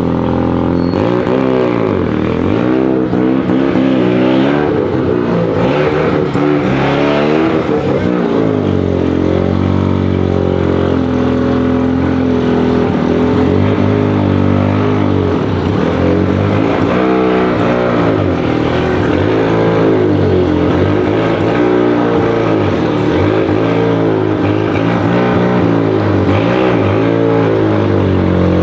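Car engines idling and rolling slowly past, a steady low rumble whose pitch sweeps up and down as the cars move.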